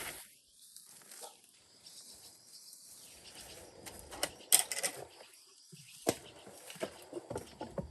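Newly bought starlings moving about in a cage: scattered pecks, taps and wing flutters. The loudest cluster comes about four and a half seconds in.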